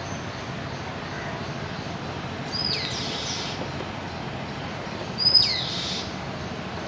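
Two short, high whistled bird calls, each a sharp downward sweep with a held high note, about two and a half and five seconds in, the second louder, over a steady outdoor background hiss.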